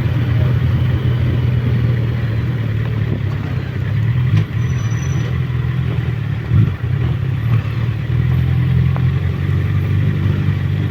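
Suzuki Bandit motorcycle's inline-four engine running steadily while riding, with wind rushing over the microphone; the engine sound dips briefly twice midway.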